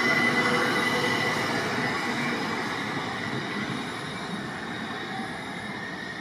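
Electric multiple unit train moving through the station, its wheels squealing in a steady high tone over the rumble of the running train. The sound is loudest at the start and fades gradually as the train draws away.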